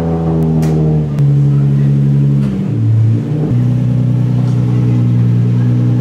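Nissan 350Z's V6 engine running loud, held at steady revs that step down about a second in and again near the middle, then holding steady.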